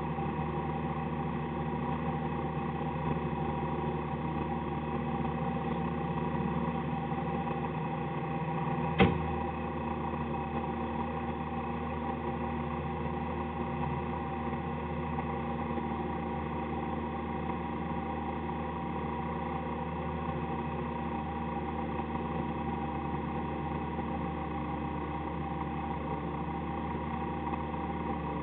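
Citroën AX autocross car's engine idling steadily, heard from inside the cabin, with one sharp knock about nine seconds in.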